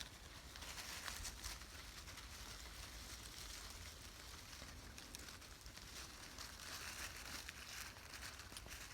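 Faint rustling and crackling of dry leaf litter as armadillos root and dig through it, with many small scattered clicks and crunches.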